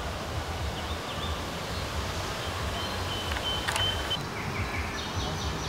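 Outdoor forest ambience: a steady hiss with a low rumble of wind on the microphone, and a few short, high bird chirps and whistles around the middle and again near the end.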